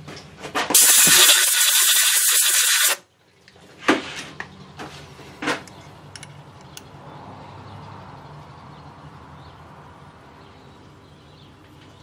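Compressed-air blow gun hissing loudly for about two seconds, then a few sharp clicks and knocks.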